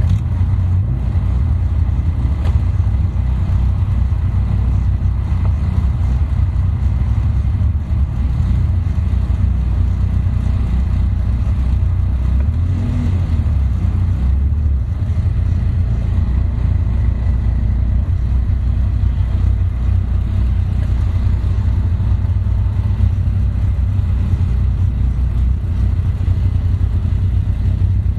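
Caterham sports car's engine idling steadily, heard close up from the car itself, a constant low rumble.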